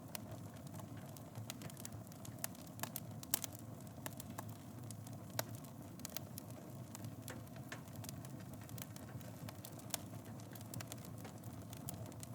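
Wood fire burning in a fireplace: a steady low rumble of flames with irregular sharp crackles and pops, a few louder snaps standing out.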